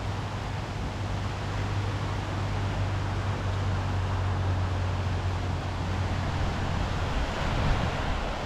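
Wind and surf noise with a steady low drone, like a distant engine, that fades out about two-thirds of the way through.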